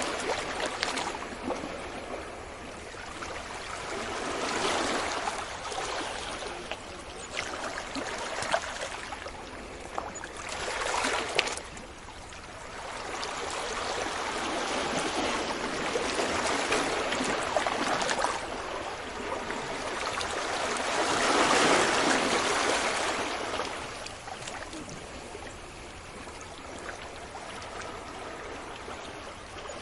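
Sea waves washing onto a beach, a hiss of surf swelling and falling back in surges a few seconds long, the biggest about two-thirds of the way through, with a brief crackle of breaking water near the middle.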